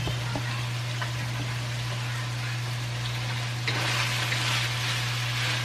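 Ground beef and mushrooms sizzling in a wok as they are stirred with a wooden spatula, the sizzle growing louder and brighter about two-thirds of the way in, over a steady low hum.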